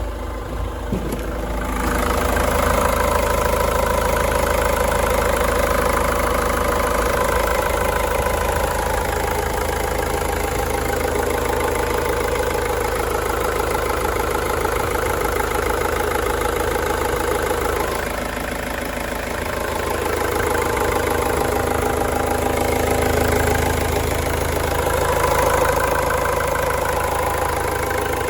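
Ford Transit 2.0 TDDi four-cylinder turbodiesel engine idling with an even drone. It grows louder about two seconds in and dips briefly about two-thirds of the way through.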